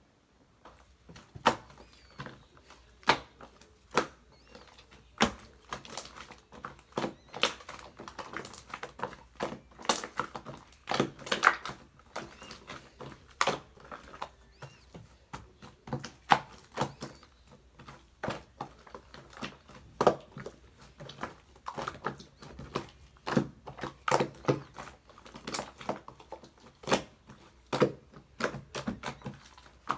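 Slime being squeezed and pressed by hand, giving irregular sticky clicks and pops, several a second and uneven in loudness.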